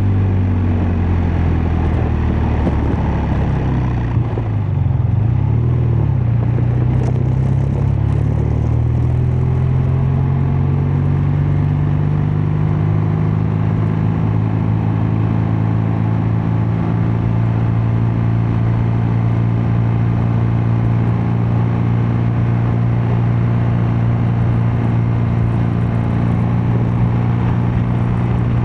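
BMW R12 nineT's 1170 cc boxer twin exhaust under way. The revs dip and waver in the first several seconds, then settle into a steady cruise that climbs slowly, with wind noise underneath.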